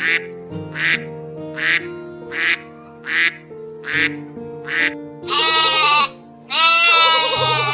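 Duck quacking in a steady run, about one quack every three-quarters of a second, then two long wavering bleats over background music.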